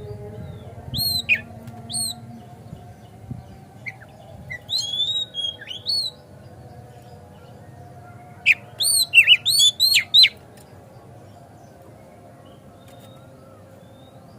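Oriental magpie-robin song: loud, clear whistled notes that sweep up and down, in short phrases through the first six seconds, then a rapid burst of whistles a little after eight seconds lasting about two seconds, over a steady low background hum.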